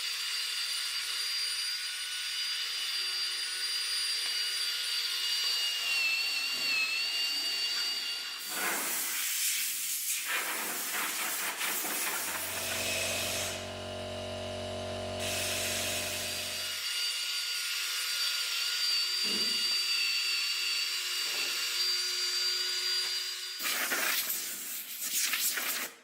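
Steady hiss of compressed air from a paint spray gun, with a faint high whistle over it. It breaks off briefly a few times, and for a few seconds around the middle a low, even hum takes over.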